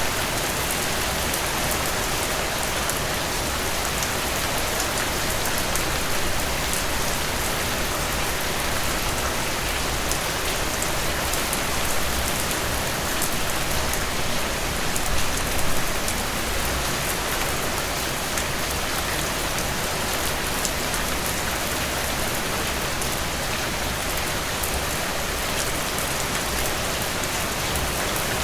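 Heavy rain falling steadily: a dense, even wash of rain with many sharp individual drop impacts, swelling briefly about halfway through.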